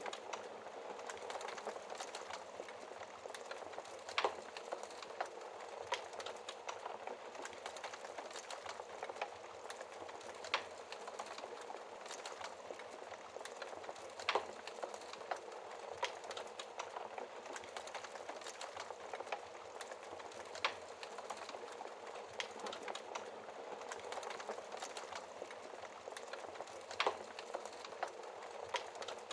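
Wood fire in a fireplace burning with a steady crackling hiss, broken by sharp pops every few seconds.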